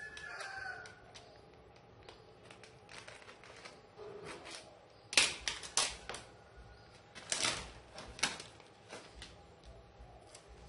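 Irregular sharp clicks and taps, with the loudest clusters about five and seven seconds in.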